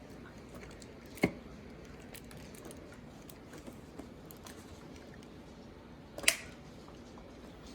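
Two sharp clicks in a quiet room, about a second in and near the end, with a few faint ticks between them; no vacuum motor running.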